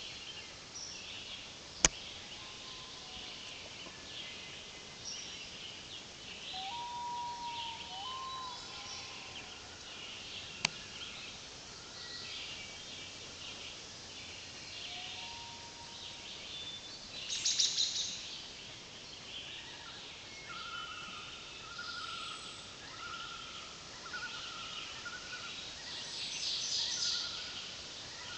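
Several songbirds singing in the woods: overlapping chirps and whistles, with a rapid trill about a third of the way in and again near the end, and a run of repeated lower notes in the last third. Two sharp clicks, one early and one about a third of the way in.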